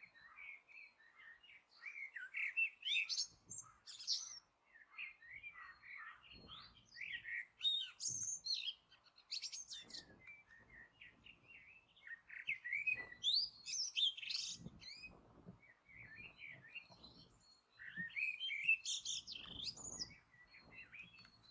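A songbird singing at dawn: a long, varied song of quick chirps and whistled notes, phrase after phrase with only short pauses.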